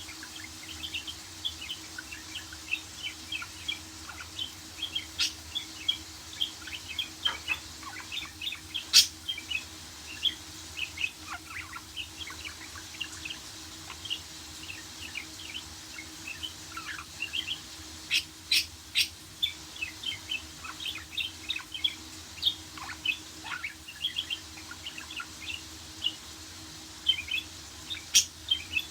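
Budgerigar chirping and chattering in a rapid stream of short high notes, broken by a few sharp, loud calls.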